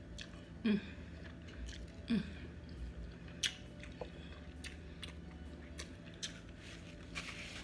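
Close-up chewing of fried pork (griot) with pickled slaw: soft wet clicks and crunches of the mouth, broken by two short hums about one and two seconds in.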